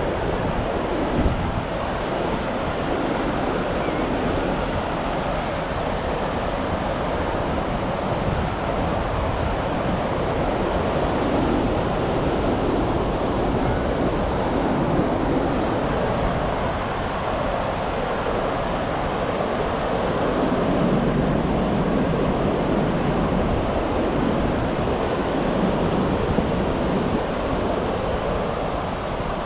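Ocean surf washing onto a beach in a steady rush that swells and eases, with wind buffeting the microphone.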